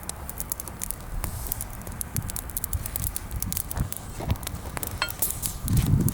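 Bonfire of freshly pruned green branches crackling and popping with irregular sharp snaps, over low soft thumps. A brief high chirp sounds about five seconds in.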